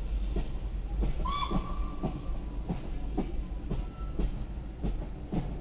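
Railway carriages rolling past at low speed, their wheels knocking over rail joints in an uneven run of clicks over a low rumble, with a short high whine about a second in. Heard from inside a parked car.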